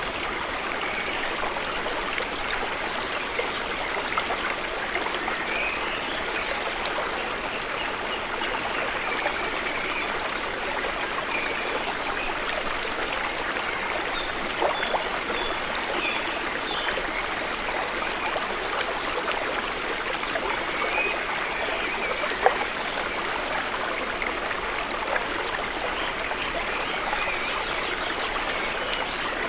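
River water flowing steadily, with small gurgles and a few brief sharp ticks or splashes, the clearest about two-thirds of the way through.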